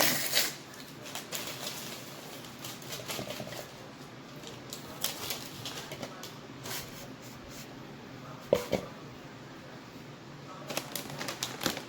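Intermittent crinkling and light clicks of paper packets being handled, with a sharper knock a little past the middle.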